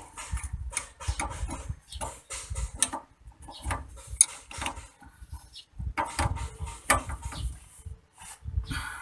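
Irregular clinks and knocks of metal hand tools and parts being handled, in uneven clusters with short pauses between.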